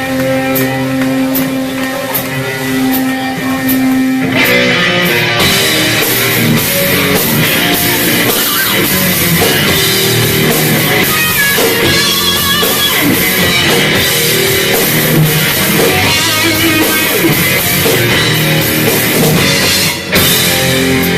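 Live heavy metal band playing: distorted electric guitar, bass and drum kit. A single note is held over the drums for about the first four seconds, then the full band comes in.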